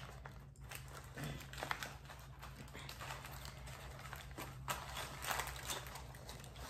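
Quiet eating sounds: someone biting into and chewing a chicken sandwich made on a glazed donut, with irregular small clicks and smacks.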